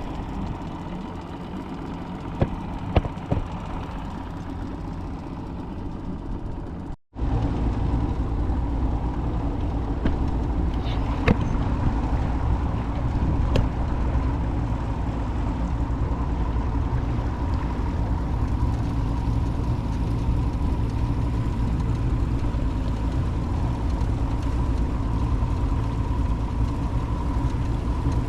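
Boat motor running steadily while under way, with rushing wind and water noise. The sound cuts out for a moment about seven seconds in, then the engine comes back louder, with more low rumble.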